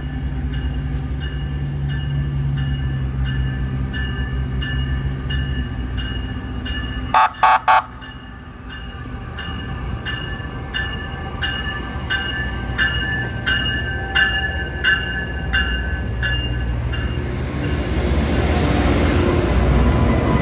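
Diesel locomotive approaching, its engine running low under a bell ringing at a steady pace, with three short horn toots about seven seconds in; near the end the rumble and rail noise build as it draws close.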